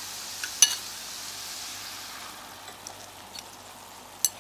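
Shrimp and vegetables sizzling in a stainless steel frying pan, a steady hiss that eases off after about two seconds. A sharp clink of a utensil on the pan comes about half a second in, and another click near the end.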